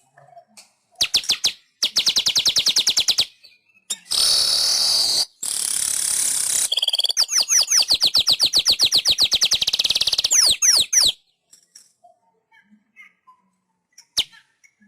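Weaver bird (manyar) singing: a fast chattering trill, then two harsh wheezy buzzes, then a long fast trill of repeated notes that ends in a few sliding notes, after which only faint chirps remain.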